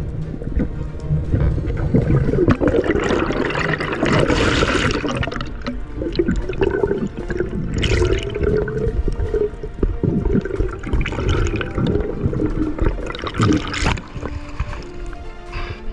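Sea water rushing and gurgling with bubbles, with a few louder surges.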